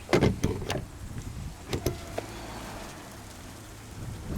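Sharp clicks and knocks of car body parts being handled: a quick cluster in the first second, then a couple more about two seconds in, over a steady low rumble.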